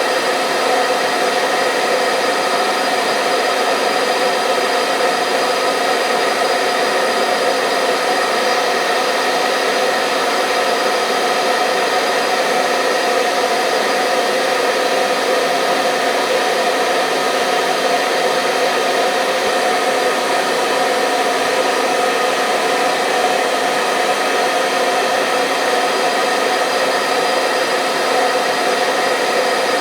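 Hair dryer running continuously: a steady rush of blown air with the motor's hum of several held tones, unchanging in level.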